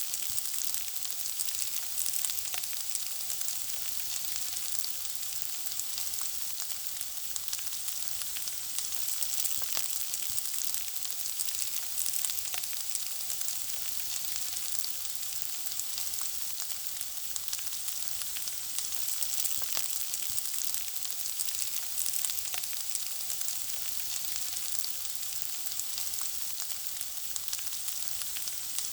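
Food frying: a steady sizzle with constant fine crackles and occasional sharper pops.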